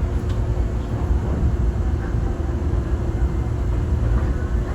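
Enoden electric train running, heard from inside the car: a steady low rumble with a faint steady hum.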